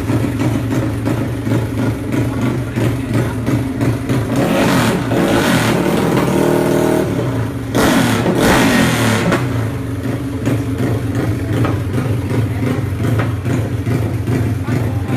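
Yamaha Mio scooter engine, built up to a 4-valve 350cc, idling with a steady beat and revved up twice, about four and eight seconds in.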